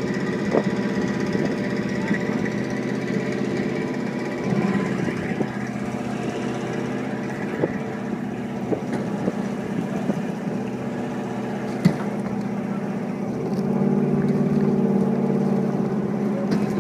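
A small engine running steadily, getting louder about thirteen seconds in as it works harder, pulling a heavy load.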